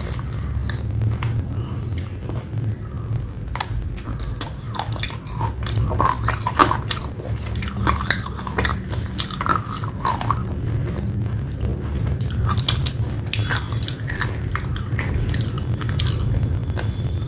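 A person chewing a mouthful of soft red clay paste: many small irregular clicks and soft crunches, over a steady low hum.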